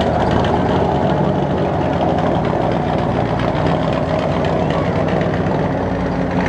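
Antique car engine running steadily at low, idling speed.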